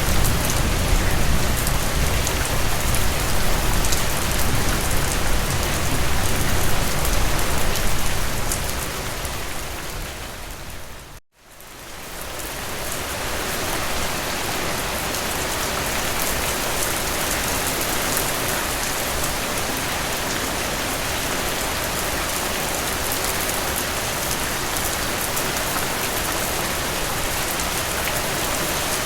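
Steady rain falling, a dense even hiss. It fades down to a moment of silence about eleven seconds in and then fades back up to an even level, as where two rain recordings are spliced together.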